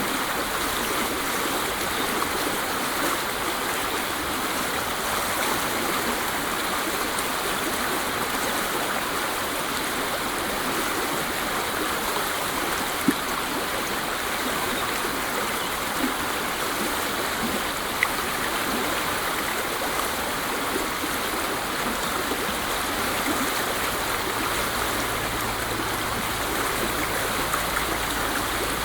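Waterfall: water falling and splashing in a steady, even rush, with two faint brief ticks around the middle.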